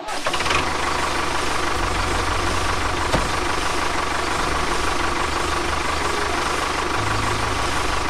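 Tractor engine running steadily with a low, even chug, matching the miniature tractor pulling its cultivator through sand.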